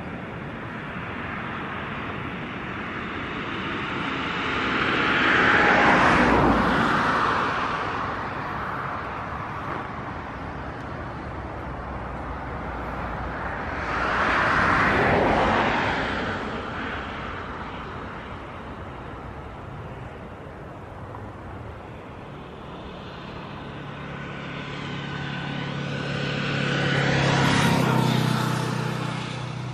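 Outdoor vehicle noise with three passes, each swelling and fading with a sliding pitch: one a few seconds in, one midway and one near the end, the last with a low steady hum under it.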